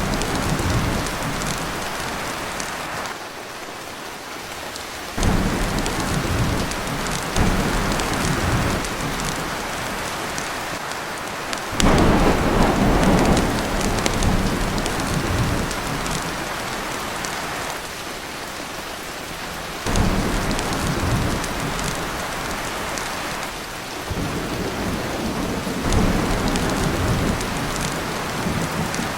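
Heavy rain pouring onto a tin roof, with rolling thunder. The low rumble swells suddenly several times and fades each time, loudest about twelve seconds in.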